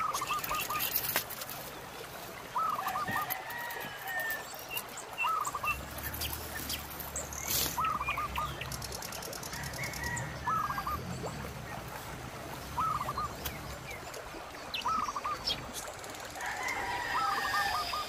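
A bird calling over and over, in short groups of three or four quick notes about every two seconds, over the steady rush of the river.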